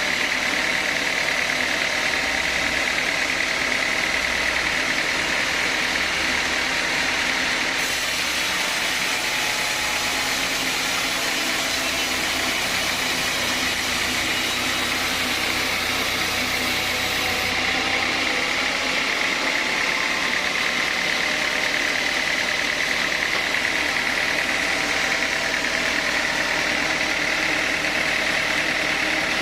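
Sawmill saw machine running steadily, with a brighter hiss added from about eight seconds in until about seventeen seconds.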